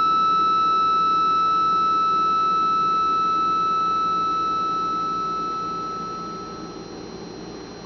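Small thermoacoustic Stirling engine sounding a steady high tone, which fades and stops about seven seconds in.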